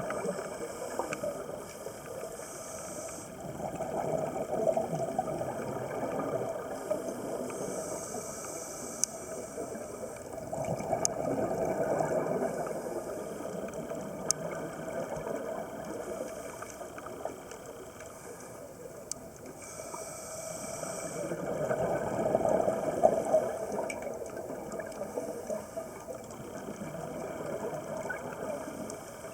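A scuba diver breathing through a regulator underwater: three breaths, each a hissing inhalation followed by a louder bubbling rumble of exhaled air.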